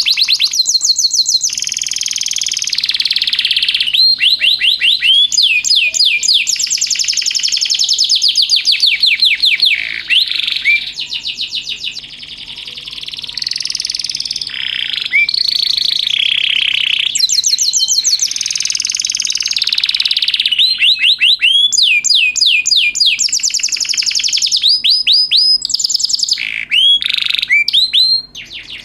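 Domestic canary singing a long, varied song of fast rolling trills and runs of quick downward-sweeping whistled notes, the phrases changing every second or two.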